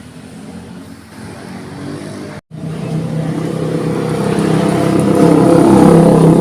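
A motor vehicle engine running and growing steadily louder, after an abrupt cut about two and a half seconds in.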